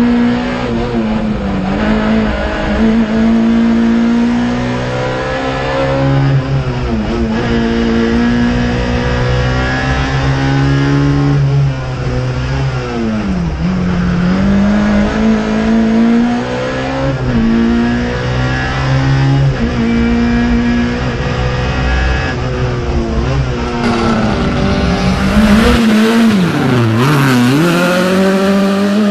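Racing hatchback's engine heard from inside the cockpit, revving hard with its pitch climbing and falling back at each gear change, dropping lower under braking for the bends. Near the end it is heard from the roadside instead, as the car powers through a bend.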